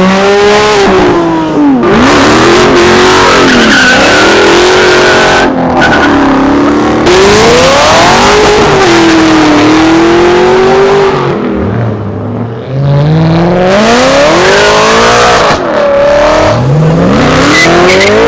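Car engine revving hard, its pitch sweeping up and down again and again, over a loud tyre squeal from skidding tyres, as in a burnout or drift.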